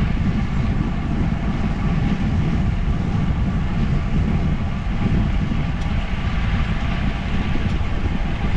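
Steady low rumble of wind buffeting the microphone, mixed with tyre and road noise from a moving bicycle.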